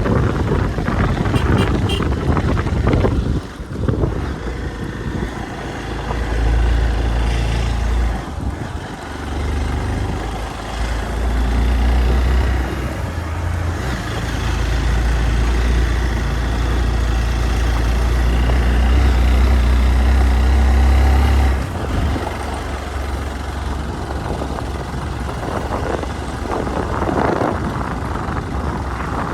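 Hero Xpulse 200 single-cylinder motorcycle engine running while riding a rough off-road track, with a heavy low rumble that is loudest from about six to twenty-one seconds in.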